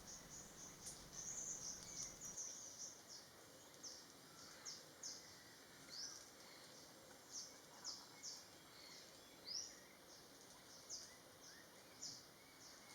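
Faint high bird chirps from the forest: a quick run of notes at first, then single short rising chirps about once a second.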